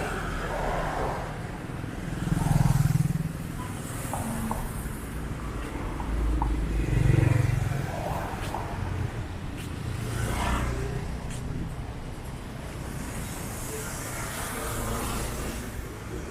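Street traffic: cars and other motor vehicles passing close by, with the engine noise swelling louder twice, about two and a half and seven seconds in.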